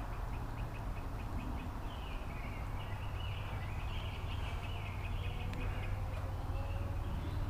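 Faint outdoor ambience: a steady low rumble, with a wavering, high-pitched animal call from about two seconds in that goes on for several seconds.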